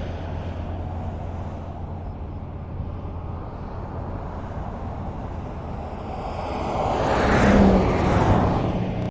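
Highway traffic: steady road rumble, with one vehicle approaching and passing close, loudest about seven and a half seconds in.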